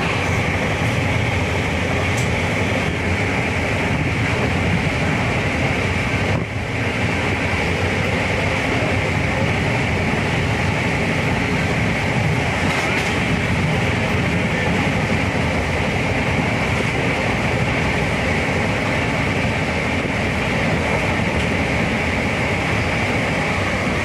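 Steady running noise of a moving passenger train, heard at an open coach door, with a brief dip about six and a half seconds in.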